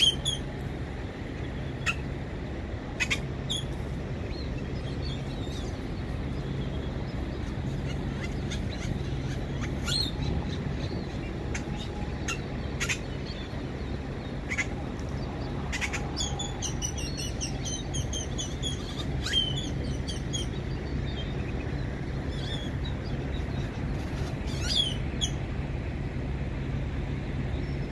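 Black birds calling in the trees: scattered sharp clicks and chips, with quick runs of short rising whistled notes about two-thirds of the way through and again near the end. Underneath runs a steady low hum of idling trucks.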